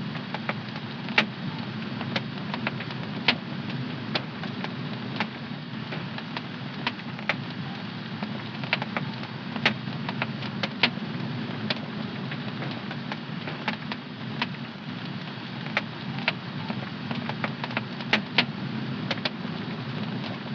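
Fire crackling in a home fireplace: frequent, irregular sharp pops and snaps over a steady, low rushing noise of the flames.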